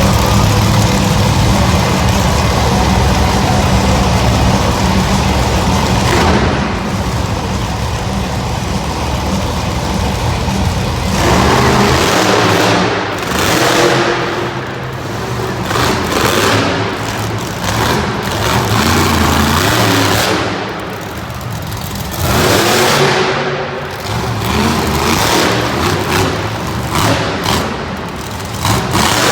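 Monster truck engine running loudly, first held at a steady rumble for several seconds, then revved hard in repeated surges that rise and drop every second or two as the truck drives and jumps.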